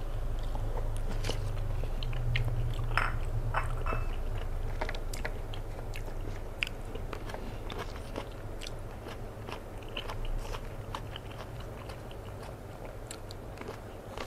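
Close-miked chewing of salmon: wet smacking and small crunching clicks from the mouth, busiest in the first few seconds and thinning out towards the end.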